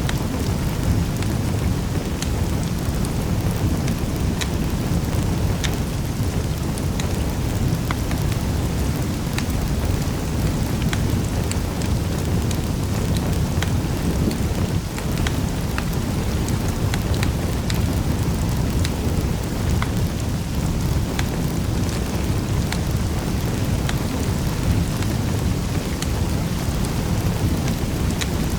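Wood fire crackling in a fireplace: a steady low rumble of flames with many small sharp pops and snaps scattered irregularly throughout.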